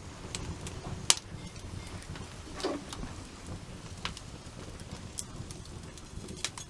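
Wood campfire burning with a low steady rumble and scattered sharp pops and crackles, the loudest about a second in.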